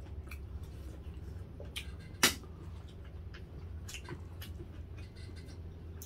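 Eating sounds: scattered small wet mouth clicks of chewing, with one sharp click a little over two seconds in, over a steady low hum.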